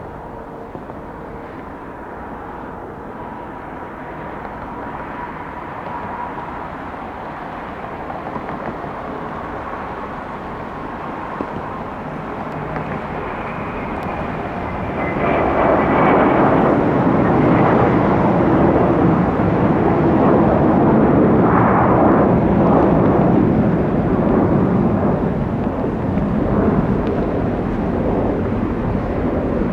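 A Boeing 717-200's two rear-mounted Rolls-Royce BR715 turbofans at takeoff power. The jet noise builds steadily, with a faint whine on top, and becomes loud from about halfway through as the airliner departs.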